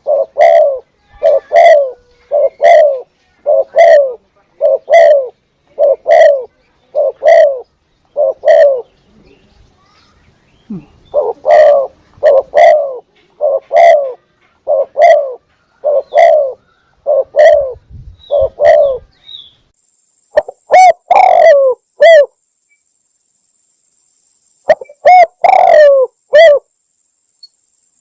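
Spotted dove (tekukur) cooing loudly, a series of short, evenly spaced coos about two a second. The coos come in runs with a couple of breaks of a few seconds between them.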